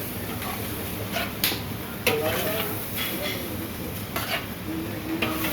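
Food sizzling in a frying pan while a metal spatula stirs it, scraping and clinking against the pan several times.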